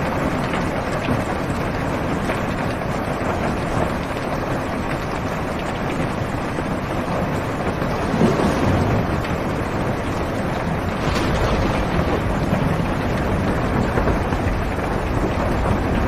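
Heavy rain beating steadily on a car's roof and windows, heard from inside the cabin, with a low rumble of thunder swelling about halfway through.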